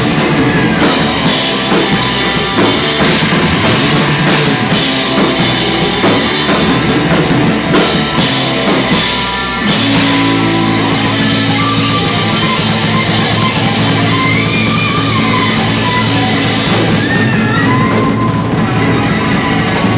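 Live rock band playing amplified electric guitar, bass and drum kit, with no singing. About halfway through, the drum hits thin out under a held low bass note, and the lead guitar plays bending, sustained lines over it.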